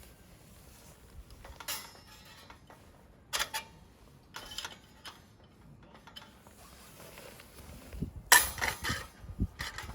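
Intermittent clicks, clinks and rattles of small hard objects being handled, a few seconds apart, loudest in a cluster near the end.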